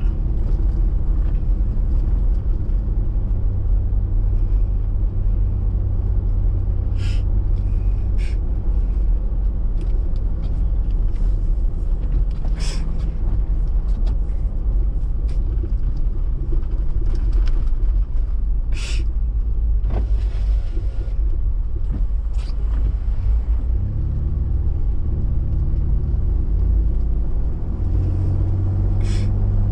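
Toyota 4x4 driving on snow-covered streets, heard from inside the cab: a steady engine and tyre rumble whose engine note shifts toward the end. A few short sharp clicks come at uneven intervals.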